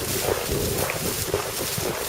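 A ridden horse moving along, its hooves falling in an irregular run of dull knocks, with wind buffeting the microphone.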